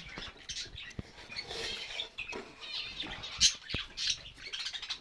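Small cage birds in an aviary, faint fluttering and chirps, with scattered light ticks and a few sharp clicks; the clearest click is about three and a half seconds in.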